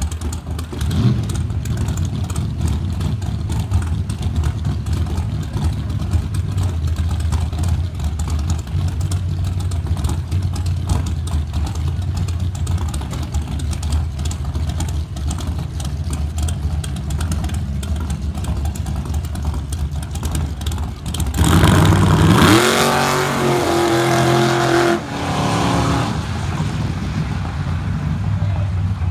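Car engine idling with a steady low rumble at a drag-strip starting line, then launching about three-quarters of the way in. It goes to a loud full-throttle run, its pitch climbing and stepping at the gear changes, and fades away after about five seconds.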